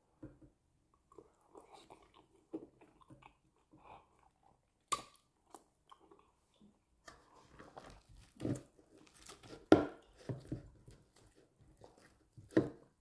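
Close-up chewing of a person eating amala dipped in banga soup: soft, wet, irregular mouth sounds with a few sharper clicks, loudest about ten seconds in.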